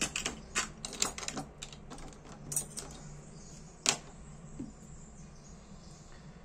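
Small sharp clicks and taps of a tool working at the parts of a Dupont L2 lighter while its hardened O-rings are picked out: a quick irregular run of clicks, one loudest click about four seconds in, then a faint steady hum.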